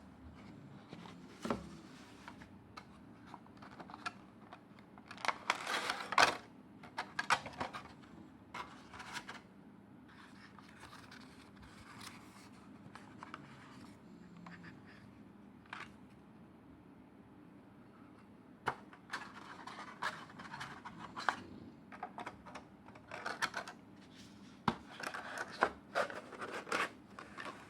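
Intermittent scraping, rustling and clicking of objects being handled, in irregular clusters with the busiest stretches about a fifth of the way in and over the last third.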